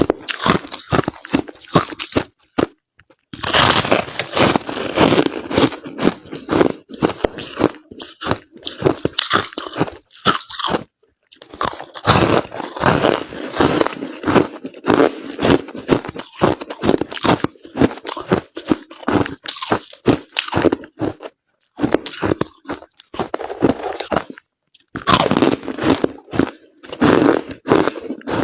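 Crushed ice being bitten and chewed: rapid, dense crunching that stops briefly a few times.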